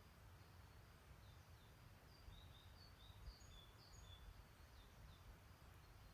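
Faint songbirds chirping: a string of short high chirps and whistles, busiest in the middle, over a low steady rumble.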